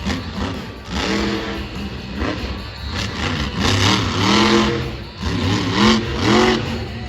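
Monster truck engine revving hard in several rising-and-falling swells of pitch, over a steady noisy background.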